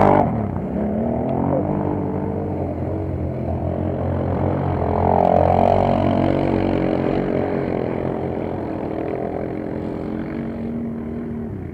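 Engines of off-road quad bikes (ATVs) racing on a mud track, their pitch rising and falling with the throttle; the sound grows louder about five seconds in as they pass, then slowly fades.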